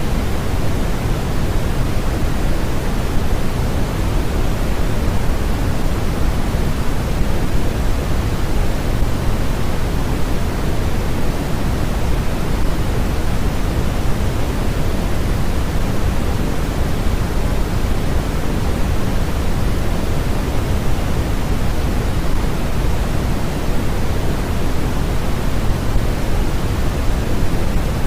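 Steady generated noise for sleep or focus: an even, unchanging hiss, fuller in the low end than in the highs, like pink noise.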